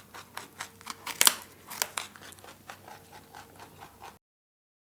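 Rabbit chewing food: a quick, irregular run of crisp crunching clicks that cuts off abruptly to silence about four seconds in.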